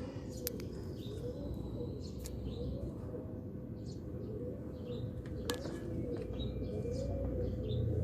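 Birds chirping and cooing over a steady low background rumble, with a few sharp clicks.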